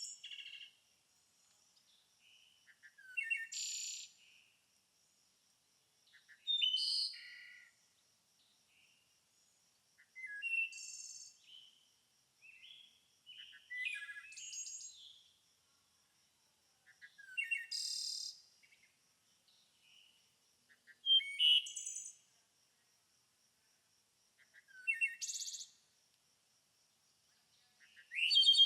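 A songbird singing short, varied phrases, each about a second long, roughly every three to four seconds. A faint steady high trill runs behind them.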